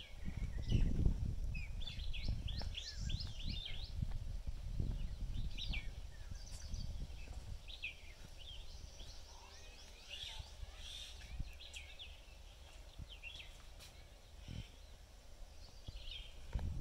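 Birds calling and chirping, with a quick run of about six chirps a couple of seconds in, over a steady low rumble.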